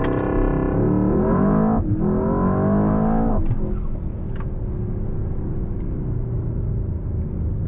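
Mercedes-AMG S63's twin-turbo V8 at full throttle in a standing-start acceleration run. Engine pitch rises, dips at an upshift about two seconds in, and climbs again. About three and a half seconds in the throttle is lifted and it settles to a low, steady rumble.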